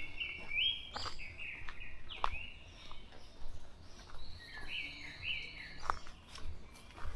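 A songbird singing in the forest: repeated short phrases of clear whistled notes that step up and down in pitch, with a longer held note in the middle. A few sharp clicks and a low rumble sit under the song.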